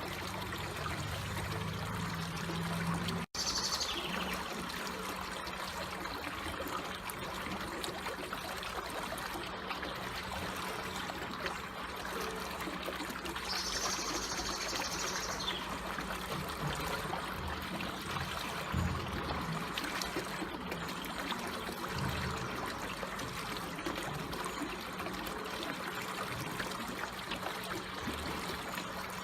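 Slowly flowing water trickling steadily and gently. A bird calls high twice, a few seconds in and about halfway through. The sound drops out for an instant about three seconds in.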